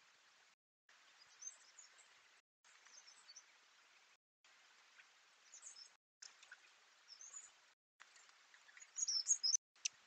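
Faint, hissy trail-camera audio of woodland birds chirping: short high chirps come in small bursts, the loudest cluster near the end, followed by a sharp click. The hiss drops out in brief silent gaps where one recording ends and the next begins.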